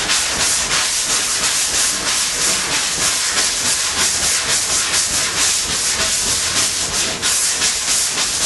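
Hand block sanding: 180-grit sandpaper on a flex block rubbed back and forth over a primed car body panel, a steady hissing rasp in even strokes. The guide-coated primer is being sanded to find high and low spots, burning through to bare metal on the high spots.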